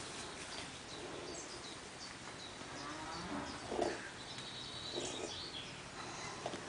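Outdoor ambience of small birds chirping, with a short low call rising in pitch a little over halfway through.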